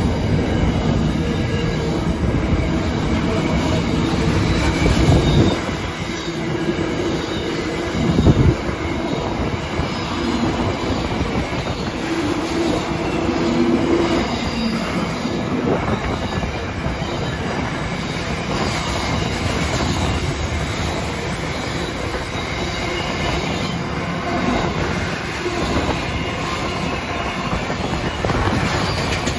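Container wagons of a long freight train rolling steadily past at close range, a continuous rumble of steel wheels on the rails. Held tones from wheel squeal come and go, and there are a few sharp knocks, the loudest about eight seconds in.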